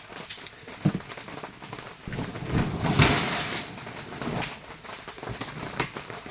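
Tarp crinkling and water sloshing on a flooded tent floor, with a sharp knock about a second in and a louder swishing push around three seconds in.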